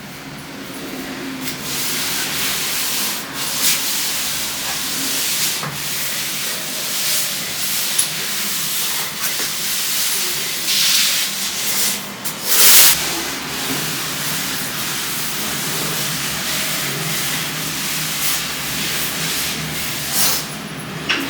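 Household cleaning noise: a steady hiss with rubbing strokes and a few knocks, the loudest a short burst about 13 seconds in.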